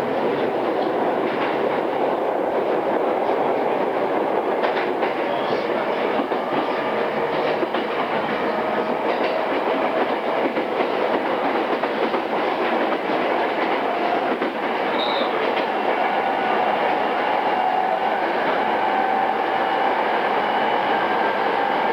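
On-board running sound of a pre-renewal JR East E217 series electric train's motor car, the wheels clicking over rail joints. Faint motor tones rise slowly in pitch through the second half. The sound is dull at the top, as from a cassette tape.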